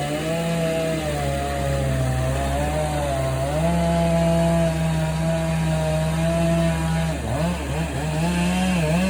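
Chainsaw cutting through a large oak log, its engine running steadily at high revs under load. In the last couple of seconds its pitch dips and rises several times as the throttle is eased and opened again.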